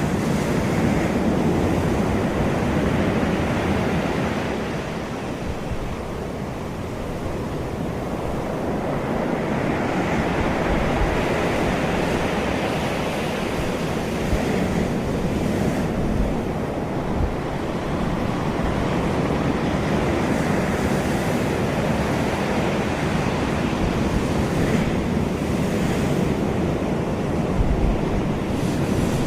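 Ocean waves breaking and washing on a beach, swelling and ebbing every few seconds, with wind buffeting the microphone.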